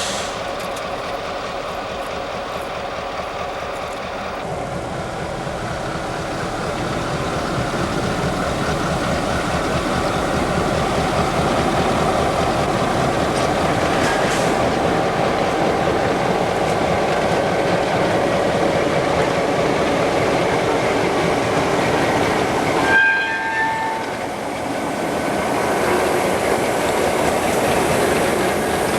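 A train rolling past on the rails, its rail cars and locomotive running steadily and growing louder after about four seconds. There is an abrupt break in the sound about 23 seconds in.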